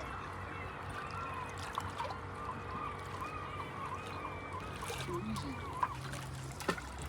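Steady rushing of water with a long run of short, repeated bird calls, a few each second, that stops about five seconds in; a few sharp clicks near the end.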